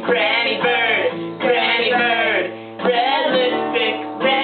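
A song being sung, one voice carrying the melody over guitar accompaniment.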